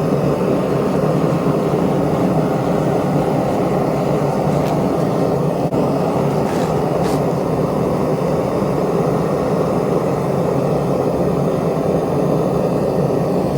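Steady rushing noise of a metal-melting furnace's burner running at full blast, unbroken apart from a brief dip about six seconds in.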